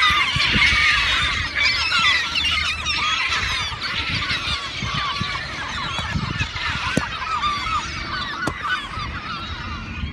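A flock of birds calling over one another: a dense stream of many short, overlapping calls that slowly gets quieter.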